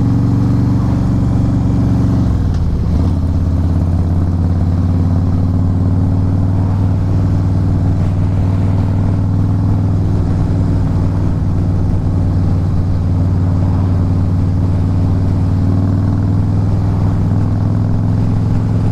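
Harley-Davidson Fat Boy S's air-cooled Twin Cam 110 V-twin running at cruising speed under wind noise. The engine note drops about two seconds in, then holds steady and slowly climbs.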